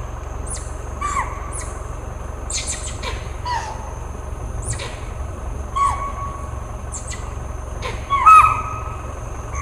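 Bird calls, short sharp notes that drop quickly in pitch, repeated about once a second at irregular gaps, the loudest pair near the end. Under them run a steady high-pitched hum and a low steady rumble.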